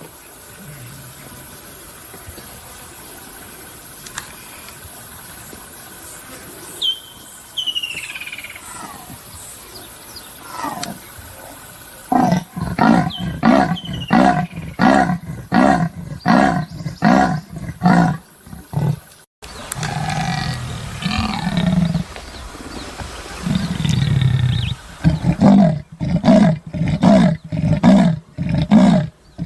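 Leopard giving its sawing call: a series of rasping grunts, about two a second, that starts about twelve seconds in, breaks off, and comes again in a second run near the end. Before the calling there is only a faint hiss with a couple of short high chirps.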